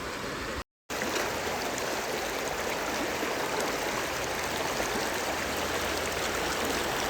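Steady rush of flowing stream water, with a brief total dropout of sound just under a second in.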